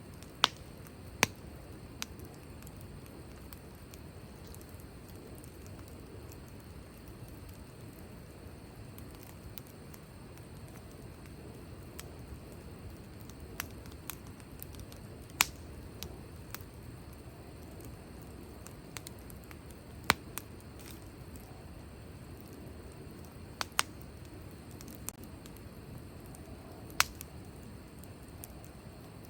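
Wood fire burning with a low steady rush, broken by sharp, irregular pops and crackles from the burning wood, a few of them loud.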